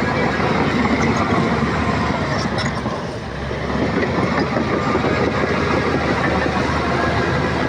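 Shantui crawler bulldozer's diesel engine running steadily, with the clatter of its steel tracks. The sound eases briefly about three seconds in, then picks back up.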